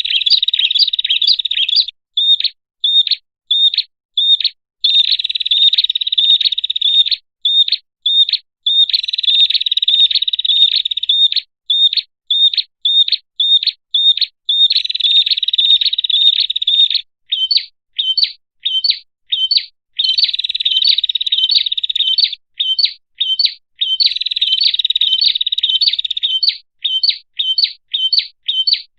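Prinia (prenjak) lure-call recording: rapid series of sharp, high chirps, several a second, alternating with continuous buzzy trills lasting two to three seconds, repeated over and over.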